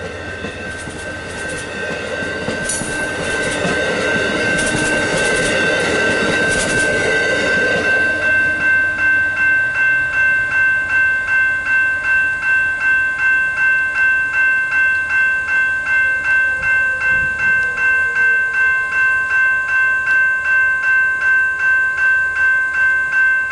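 Amtrak passenger cars roll past a grade crossing, wheels clicking and rumbling on the rails, dying away about eight seconds in. Throughout, the crossing's warning bell rings, and it carries on alone after the train clears at a steady bit over two strokes a second.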